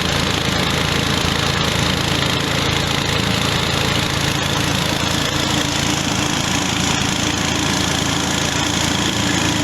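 Mini rice-husk grinding mill running steadily, a continuous mechanical hum mixed with grinding noise as it mills husks into bran; a steadier hum comes in a little over halfway through.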